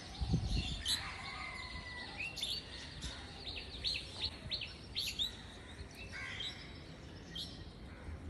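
Small birds chirping: short, high chirps in scattered runs, busiest through the middle.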